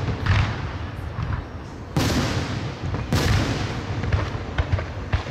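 Aerial fireworks shells bursting overhead: a run of sharp booms, each trailing off into a rumbling echo. The biggest come about two and three seconds in, with smaller cracks near the end.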